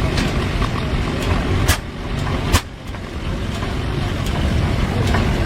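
Old tractor engine running steadily with a low, pulsing rumble, cut by two sharp knocks a little under two seconds in and again about two and a half seconds in.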